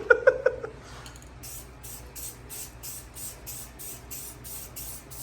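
Spray paint hissing from the nozzle in short, quick bursts, about three a second, laying down light coats.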